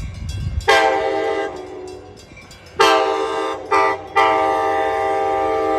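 Amtrak F59PHI locomotive's air horn sounding a chord in four blasts, long, long, short, long, the standard grade-crossing warning, with the last blast held.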